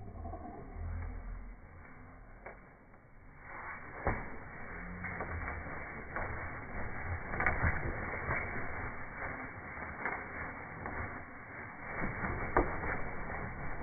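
Two caique parrots scuffling as they fight: rustling that starts a few seconds in, with several sharp clicks, the loudest about halfway through.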